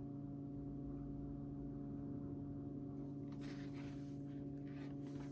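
Faint steady hum of several low tones, with soft rustling from about three seconds in.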